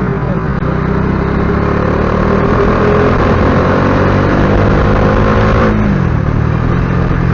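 Motorcycle engine rising slowly in pitch under acceleration for about five seconds, then dropping sharply and running on steadily, over a constant rush of wind and road noise.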